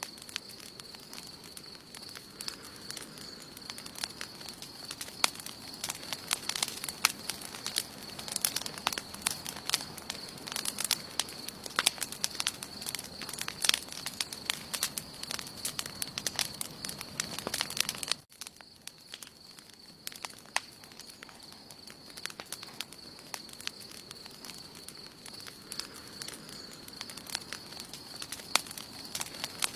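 Wood campfire burning, crackling and popping with many sharp snaps. The snaps come thick for the first half, drop away sharply for a moment about 18 seconds in, then return sparser.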